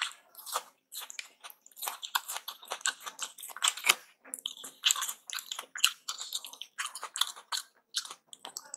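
Close-miked chewing of aloo paratha with chutney: a dense run of wet mouth clicks and smacks.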